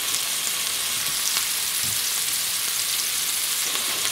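Hamburger patties and potato fries frying in oil in pans: a steady sizzle with fine crackles.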